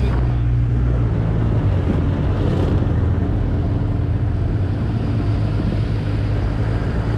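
An off-road 4x4's engine running steadily with a low, even drone.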